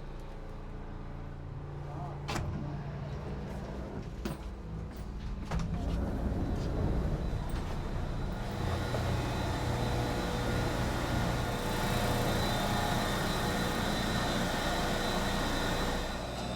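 Inside a Resort Shirakami train carriage: a steady low engine hum with a few sharp clicks, then from about six seconds in the running noise builds and spreads higher as the train gets under way, holding steady after that.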